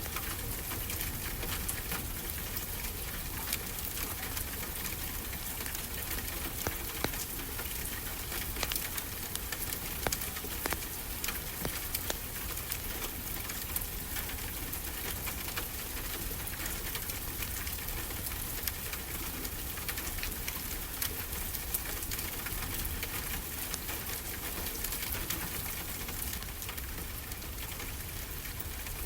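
Wood fire crackling, with frequent small snaps and pops, over a steady rush of ocean surf.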